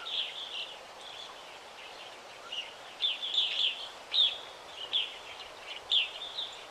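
Several birds chirping and calling in a forest, short high notes, some sweeping downward, coming in bursts, over a faint steady hiss.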